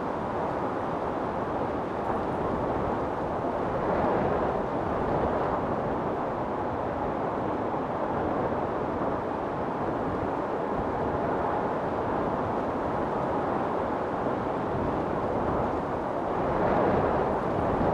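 Strong storm wind blowing steadily, with gusts swelling about four seconds in and again near the end.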